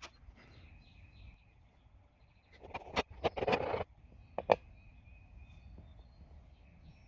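A few sharp knocks and clicks with a short rustle of handling, about three to four and a half seconds in, over faint bird chirps.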